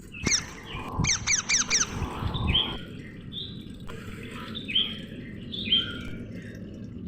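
Parrots squawking: a single call near the start, a quick run of four sharp, falling squawks about a second in, then harsher squawks about once a second.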